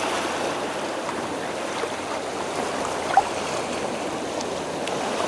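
Steady rush of shallow water washing around a rocky tide pool, with one brief sharp sound about three seconds in.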